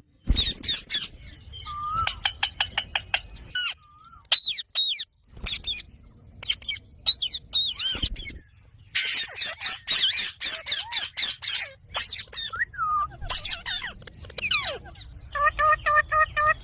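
Pet green parrots calling: a busy series of sharp, high-pitched chirps and squawks, ending in a run of quick, evenly repeated notes.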